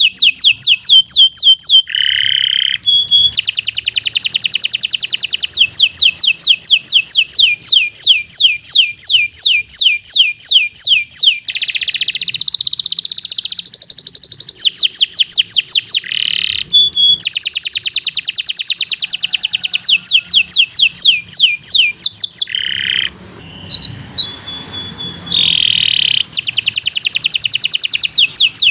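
Domestic canary singing a long song of fast trills, rapid repeated sweeping notes about ten a second, broken now and then by short buzzy lower notes. About 23 seconds in the song turns softer and sparser for a couple of seconds, then the trills resume.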